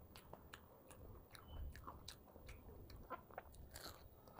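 Quiet close-miked chewing with many small wet mouth clicks, then a crisp bite into a fried hara chana (green chickpea) pakoda near the end.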